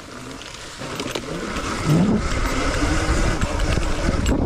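Dirt bike pulling away and speeding up: its motor tone rises in pitch about two seconds in and then holds steady, growing louder, with wind rumble on the microphone.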